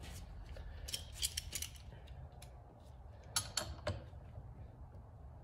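Pliers working on a steel motorcycle fork stanchion tube: a few sharp metallic clicks and scrapes, bunched about a second in and again past the three-second mark, over a low steady hum.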